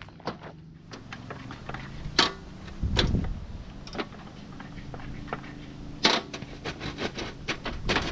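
Footsteps on a dry bush trail: irregular crunches and clicks underfoot, the sharpest about 2, 3 and 6 seconds in, over a faint low steady hum.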